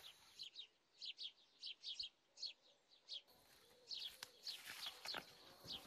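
Small birds chirping faintly: short, high, falling chirps repeating several times a second, with a couple of soft clicks about two-thirds of the way through.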